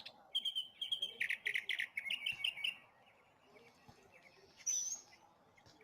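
Domestic goose giving a quick run of short, high calls for about the first three seconds, then one brief higher squeak near the end.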